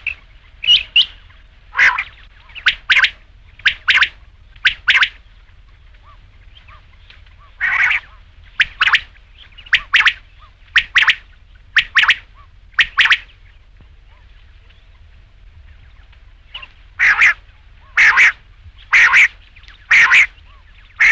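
Quail calling: short, sharp notes, mostly in close pairs, repeated about once a second, with a pause of about three seconds midway.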